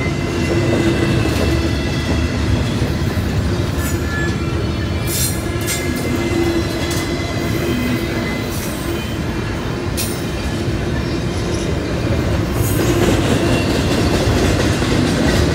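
Double-stack container well cars of a CSX freight train rolling past at a grade crossing, wheels rumbling and clattering steadily on the rails. Brief high-pitched screeches break through a few times.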